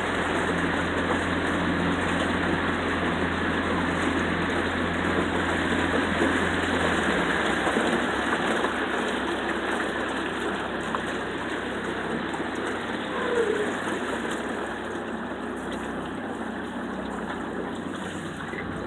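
A 20-horsepower Yamaha outboard motor running steadily with water rushing along the boat; about seven seconds in its note drops lower as it is throttled back.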